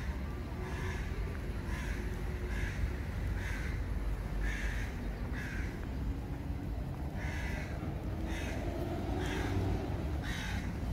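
A bird cawing over and over, short harsh calls about once a second with a brief pause midway, over a steady low background rumble.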